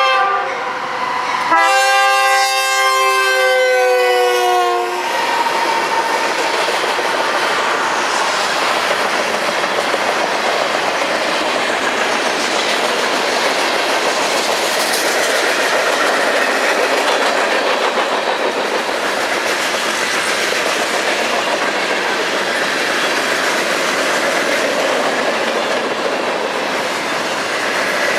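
Diesel freight locomotive's multi-chime air horn: the end of one blast, then a second blast of about three seconds that slides slightly down in pitch as the locomotive passes. The freight cars then roll by with steady wheel and rail noise and clickety-clack over the joints.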